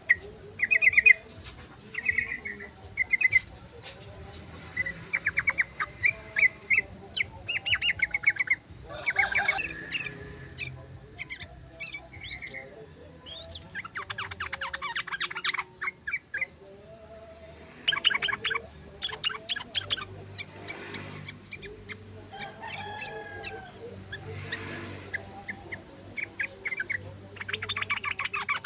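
Yellow-vented bulbul (trucukan) calling: repeated bouts of quick, chattering notes, one after another.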